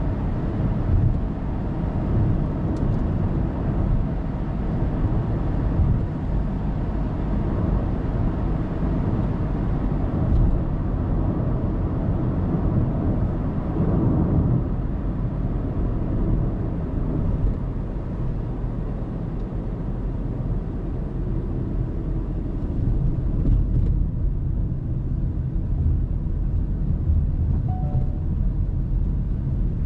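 Car driving on an expressway heard through a dashcam: steady tyre and engine rumble with road noise. A short two-note electronic beep sounds near the end.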